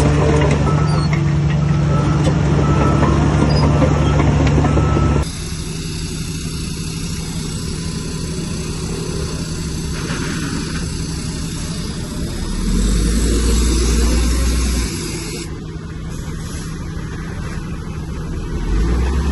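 Heavy earthmoving machine's diesel engine running steadily. The sound changes abruptly about five seconds in, and the engine's low note swells twice, once around the middle and again near the end.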